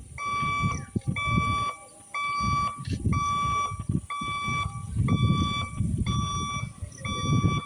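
Railway level-crossing warning alarm sounding in repeated electronic beeps, about one a second and each about half a second long, over uneven low background noise.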